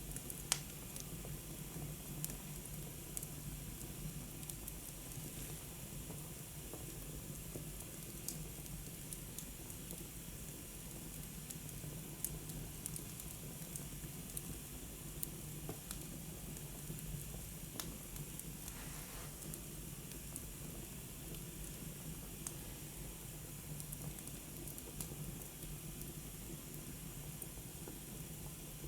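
Wood fire crackling in a fireplace: a steady hiss with scattered sharp pops, the loudest about half a second in.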